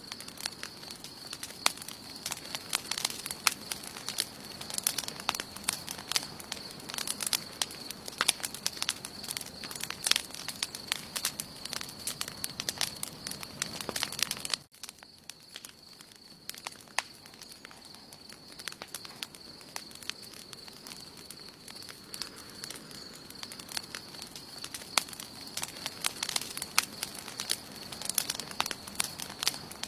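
Wood campfire burning, crackling with frequent irregular sharp pops, over a thin steady high-pitched tone. The crackle drops out for an instant about halfway through, then carries on.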